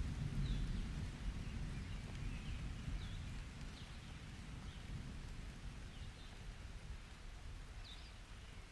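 Summer rain ambience: a low thunder rumble dying away under light rain, with short bird chirps about once a second.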